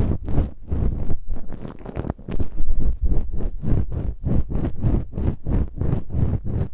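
Ear-cleaning ASMR strokes: an ear-cleaning tool scraping and rubbing in a microphone's ear, about three strokes a second, each with a low rumble.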